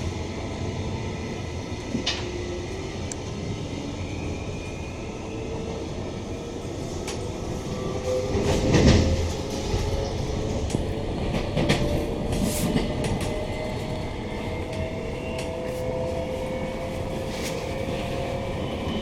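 Queensland Rail NGR electric multiple unit running, heard from inside a passenger car: wheel-on-rail rumble with a faint electric motor whine slowly rising in pitch. A louder rush swells briefly about nine seconds in.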